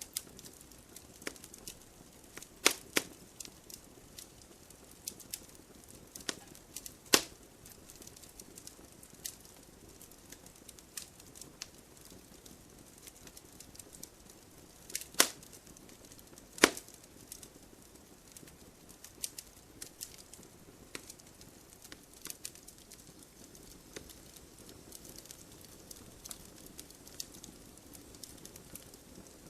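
Firewood burning in a wood stove, crackling with irregular sharp pops over a faint steady hiss. The loudest pops come a few seconds in, again about a quarter of the way through, and twice around the middle.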